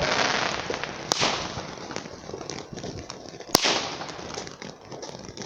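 Multi-shot consumer firework cake firing: a hiss at the start, then a sharp bang about a second in and another about two and a half seconds later, each followed by a crackling hiss.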